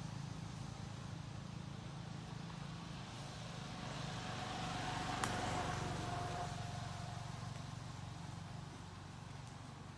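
A motor vehicle passing, its noise swelling to a peak a little past the middle and then fading, over a steady low traffic hum. A single sharp tick comes at the peak.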